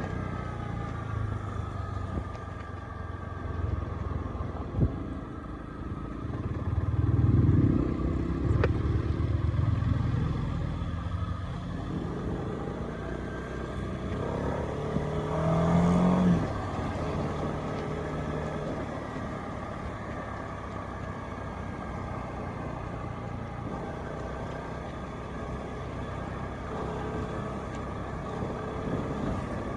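Honda CB300R's single-cylinder engine running on the move, its pitch rising and falling with the throttle, over road and wind rumble. The sound swells louder twice, about a quarter and about halfway through.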